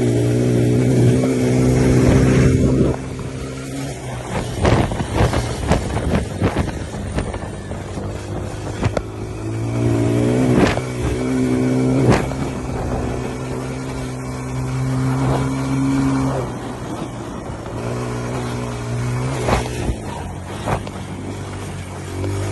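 Dirt bike engine running, holding a steady pitch for several seconds at a time, with rougher, noisier stretches of knocks and clatter in between.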